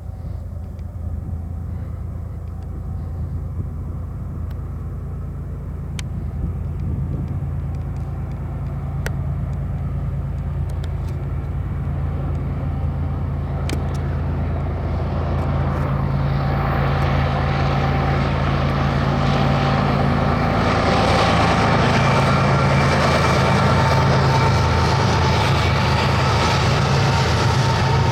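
Diesel-electric freight locomotives of a BNSF double-stack train working hard up a grade: a steady low engine drone that grows louder as they approach. A broader rushing noise joins about halfway through and builds toward the end.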